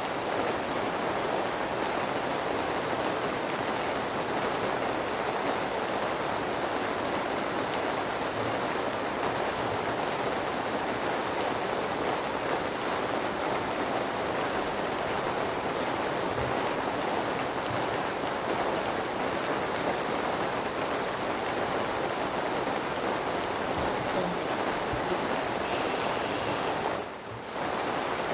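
Steady rain noise, an even unbroken hiss, dipping briefly about a second before the end.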